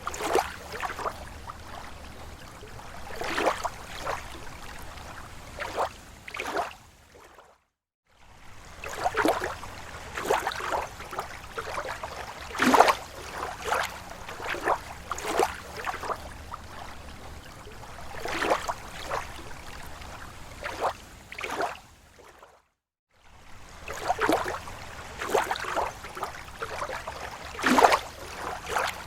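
Water lapping at a lake shore: small waves slapping and splashing in an irregular rhythm over a steady wash. The sound cuts out briefly to silence twice.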